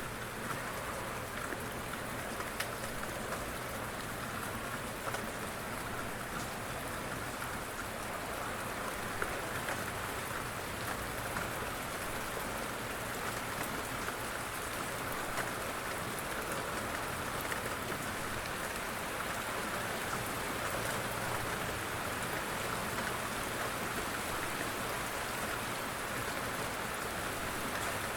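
Light rain falling steadily: an even hiss with scattered faint ticks of single drops.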